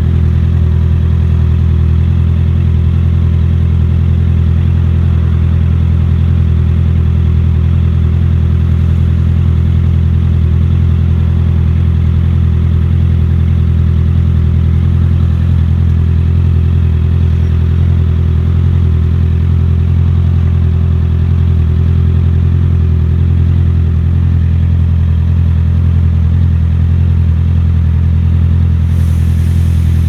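Motorcycle engine running at a steady, nearly unchanging pitch, as on a constant-speed stretch of road.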